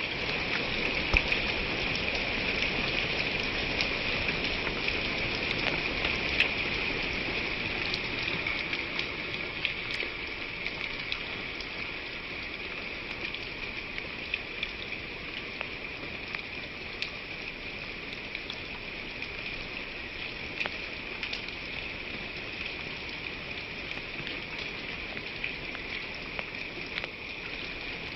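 Rain falling steadily, with scattered individual drops ticking; it is a little heavier for the first several seconds, then settles.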